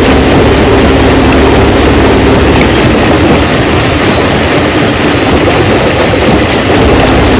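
Stone-crushing machine running: a loud, steady mechanical din with a constant low hum.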